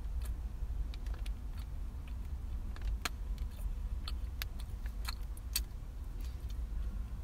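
Mouth and chewing sounds of someone eating a soft, melted cookie: scattered short sharp clicks over a steady low rumble.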